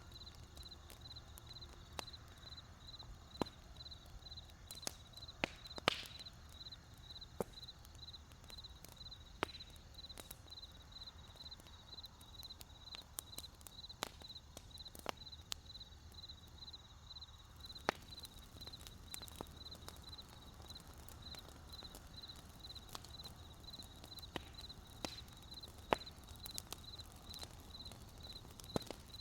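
Wood campfire crackling with scattered sharp pops over a low rumble, the loudest pops about six seconds in, near eighteen seconds and near twenty-six seconds. Behind it a cricket chirps in a steady, evenly pulsing high trill.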